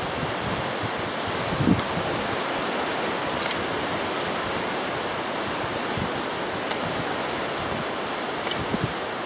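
Strong, gusty wind rushing over the microphone as a steady noise, with a few low buffets from gusts, the strongest about two seconds in.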